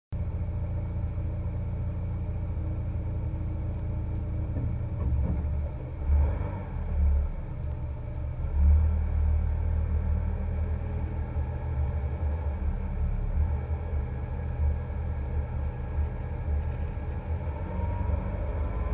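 Low, steady rumble of a running car, with louder uneven surges about five to nine seconds in.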